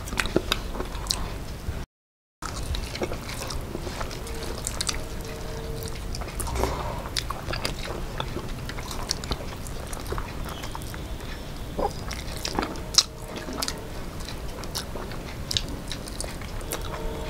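Two people eating with their hands: chewing and wet mouth smacks, mixed with fingers squishing rice and fish against the plates, heard as many small irregular clicks. The sound cuts out completely for about half a second near two seconds in.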